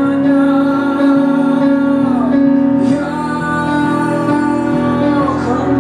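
Live band music between sung lines of a pop song, with long held notes and a note gliding down about two seconds in.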